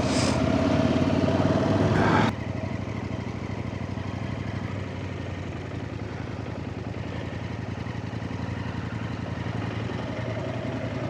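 Off-road motorcycle engines idling steadily. About two seconds in the sound drops suddenly to a quieter idle, as the nearest engine cuts out or pulls away.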